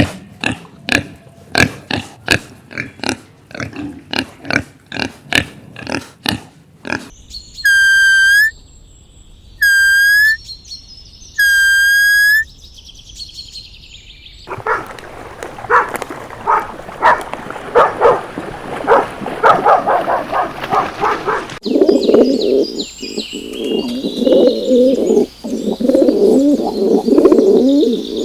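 A run of different animal calls, one after another: a rapid series of short pulses, three long, steady high-pitched calls, more pulsing calls, then lower warbling calls near the end.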